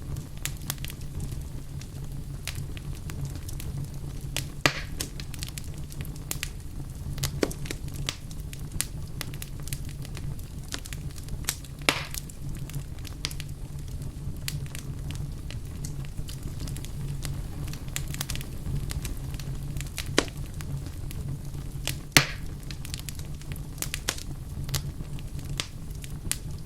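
Wood fire in a fireplace crackling, with scattered sharp pops over a steady low rumble of the flames; a few louder pops stand out.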